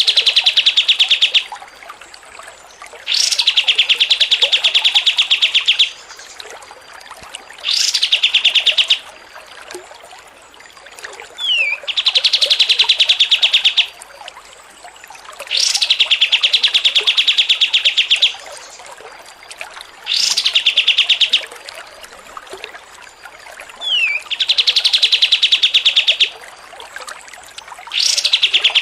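Songbird masteran recording: a rapid, buzzy trill phrase about two seconds long, repeated roughly every four seconds, each phrase opening with a sharp rising note, with a short falling whistle before some of them.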